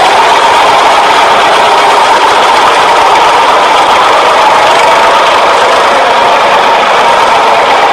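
Loud, steady whirring of a toy vehicle's motor, running without a break.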